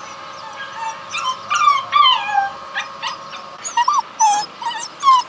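Dogs in a shelter giving a quick run of short, high-pitched whining cries that fall in pitch, starting about a second in.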